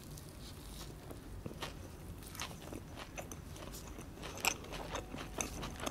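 Close-miked biting and chewing of meat-filled murtabak flatbread: a string of sharp mouth clicks, sparse at first and coming thicker from about two seconds in.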